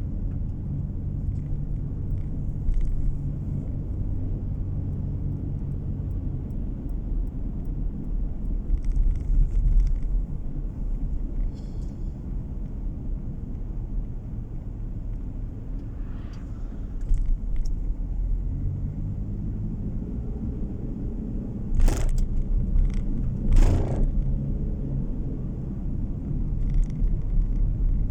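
Car driving along a road, heard from inside the cabin: a steady low rumble of engine and tyre noise. About two-thirds of the way through come two sharp knocks in quick succession.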